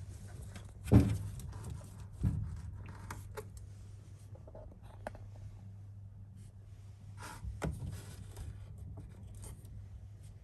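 Hands working on washing-machine parts: a sharp knock about a second in, a second knock soon after and another later, with scraping and rustling in between, over a steady low hum.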